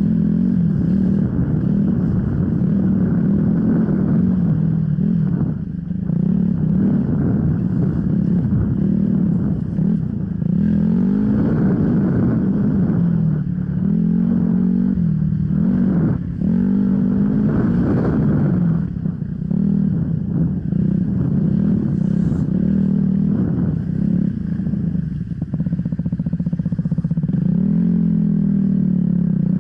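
Enduro dirt bike engine running under varying throttle while being ridden off-road, its pitch rising and falling over and over, with a few brief drops as the throttle is shut off.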